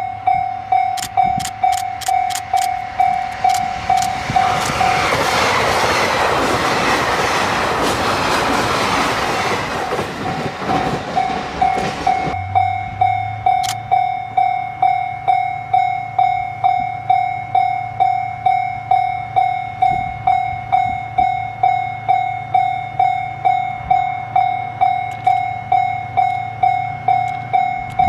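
A train passes at speed with a rushing rumble for about eight seconds, cutting off sharply about twelve seconds in. A level-crossing warning bell rings steadily throughout, about two strikes a second.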